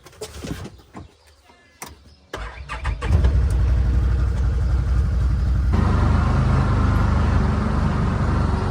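A few light knocks and clicks, then a vehicle engine starts about two seconds in and runs steadily.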